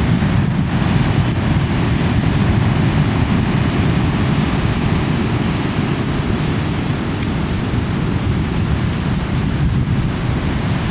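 Big sea waves breaking as a continuous, steady wash of surf, heavy in the low end, with wind buffeting the microphone.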